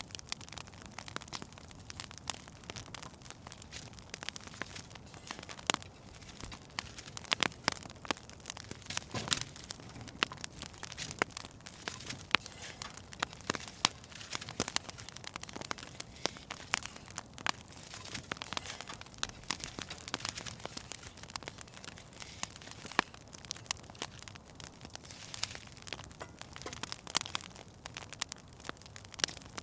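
Wood fire burning in a fireplace, crackling steadily with frequent irregular sharp pops over a soft low hiss.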